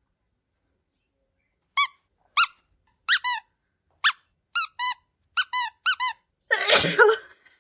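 About ten short, high squeaks in quick succession, each rising and then falling in pitch. Near the end comes a single sneeze from a woman.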